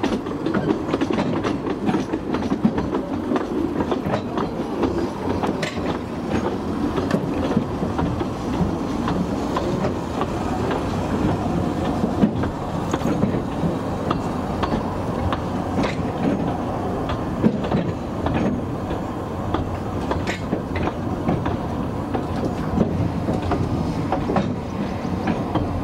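Narrow-gauge train running along the track: a steady rumble with irregular clicks and clatter of the wheels over the rail joints.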